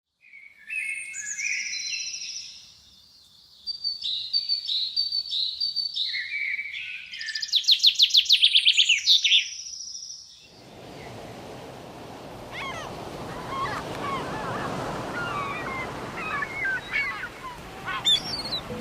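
Songbird singing: clear whistled phrases and a fast trill for about ten seconds. Then comes a steady rushing background with fainter bird chirps over it.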